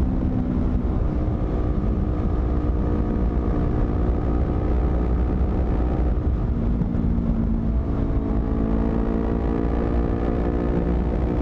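Honda CBR250RR's twin-cylinder engine running through a modified exhaust while riding. The engine note drops near the start and rises again about two-thirds of the way through, over a steady low rumble.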